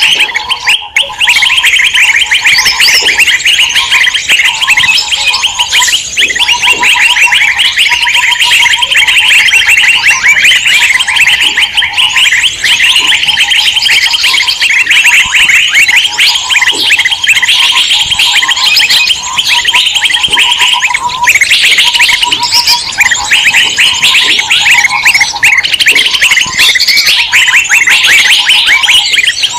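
Loud, dense chorus of many small songbirds chirping and chattering at once, a bird-lure recording for drawing in wild birds, with a lower note repeating in short pulses underneath.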